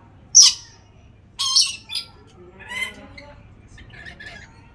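Lory (nuri parrot) squawking: one loud, sharp, high squawk just after the start, then a run of shorter, harsher calls and a lower pitched call, fading to a few faint ones near the end.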